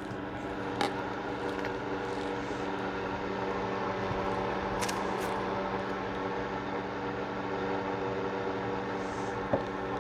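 A steady mechanical hum. There are two light clicks: one about a second in and a sharper one near the end.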